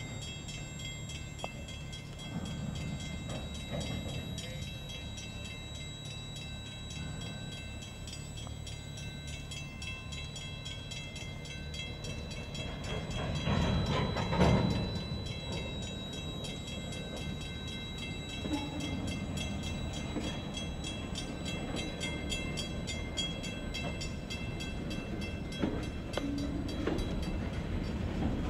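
Freight train of gondola and covered hopper cars rolling past with a steady low rumble of wheels on rail. The rumble swells to its loudest about halfway through.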